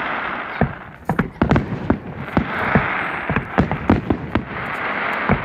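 Fireworks going off: a rapid run of sharp bangs in uneven clusters, over a crackling hiss that swells and fades.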